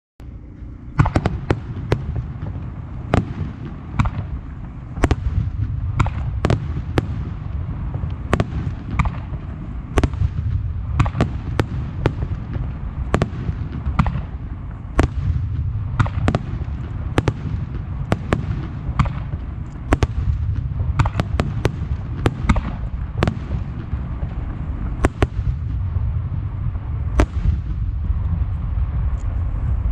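Starmine fireworks display: shells bursting in rapid succession, sharp bangs about one or two a second from about a second in, over a continuous low rumble of overlapping detonations.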